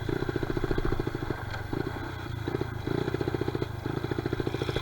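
Honda XR70R pit bike's small single-cylinder four-stroke engine running with a fast pulsing beat, easing off about one and a half seconds in and picking back up around the three-second mark.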